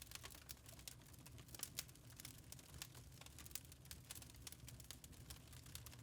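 Wood fire crackling in a fireplace: irregular, sharp little pops and snaps, several a second, over a low steady rumble.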